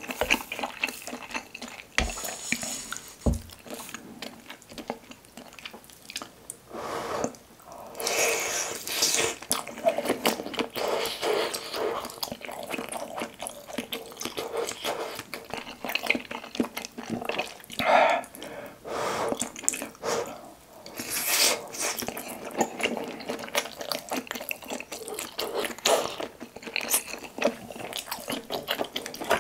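Close-miked wet chewing of soft, broth-soaked Korean fish cake (eomuk) eaten off skewers: a steady run of moist, sticky mouth sounds and small liquid clicks, with a couple of short low knocks a few seconds in.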